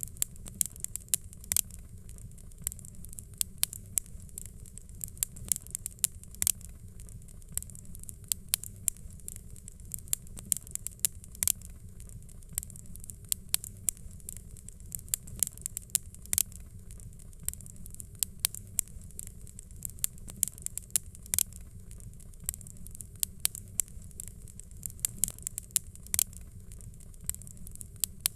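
Fireplace fire crackling: many small irregular crackles with several louder sharp pops over a steady low rumble.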